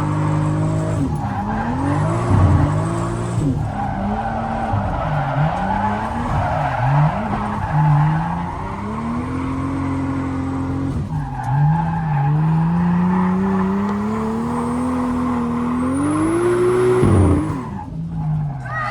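Toyota Supra drift car's engine revving up and down repeatedly through a drift run, with tires squealing. Near the end the revs climb steadily for several seconds, then drop off sharply.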